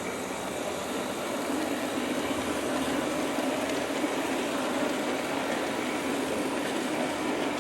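G scale model train running on garden track, pulled by USA Trains F3 diesel locomotives: a steady rumble of wheels rolling on the rails and motors driving the gears, growing a little louder over the first couple of seconds as it nears.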